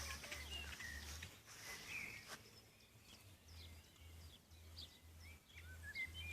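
Faint, scattered bird chirps over low outdoor background noise.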